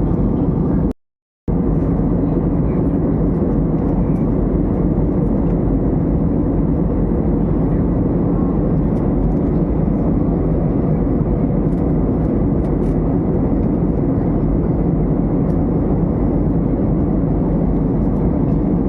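Steady jet airliner cabin noise in flight: a constant low rush of engine and airflow. There is a brief half-second dropout to silence about a second in.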